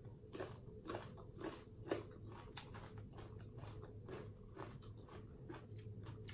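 Crunching and chewing of a raw Thai round eggplant. Sharp crunches come about twice a second for the first two seconds, then softer, quicker chewing follows.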